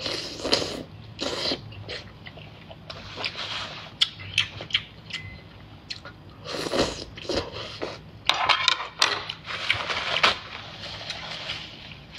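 Wet biting and chewing of oysters in spicy sauce pulled off a skewer, in irregular short bursts.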